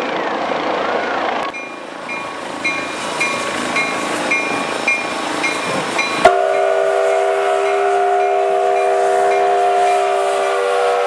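Steam locomotive's whistle sounding one long, steady chord of several notes, cutting in suddenly about six seconds in. Before it a bell dings about twice a second over the rumble of the moving train.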